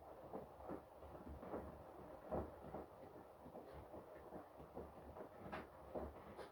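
Washing machine drum turning during a wash, with wet laundry tumbling and water sloshing in soft, irregular thumps.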